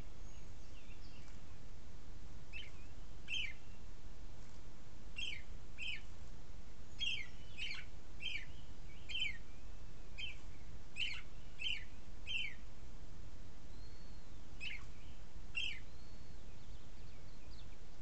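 A bird gives a series of short, sharp down-slurred chirps, often in quick pairs, with a pause before a last couple near the end. A faint thin whistle comes about three-quarters of the way through, over a steady low hiss.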